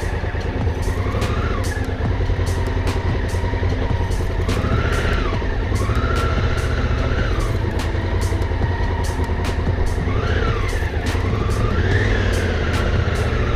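Adventure motorcycle engine running while riding a dirt track, with its pitch rising and falling several times.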